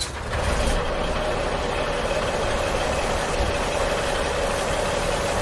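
A steady engine-like running sound: a constant mid-pitched hum over a low rumble, with no change in speed.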